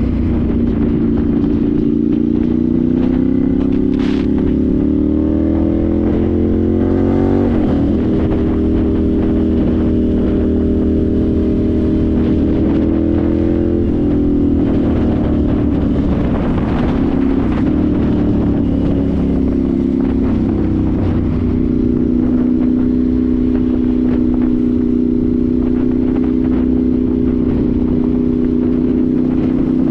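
Ducati Monster 796's air-cooled L-twin through twin Akrapovic silencers, under way: the revs climb for the first seven or so seconds, break at a gear change and hold steady, then fall away from about halfway. The engine settles to a steady cruise for the last third.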